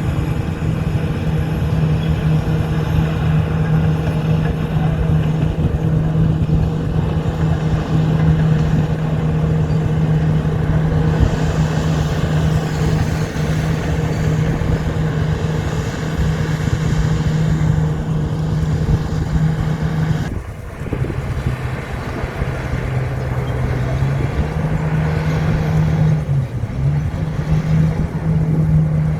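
Heavy diesel engine of an old Komatsu bulldozer running hard. About two-thirds of the way through, the sound dips briefly and the engine note drops lower, then climbs back up a few seconds later.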